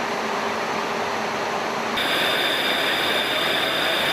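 Steady jet aircraft cabin noise from the E-3 Sentry's engines and airflow. About two seconds in it changes abruptly to a louder hiss with a high steady whine.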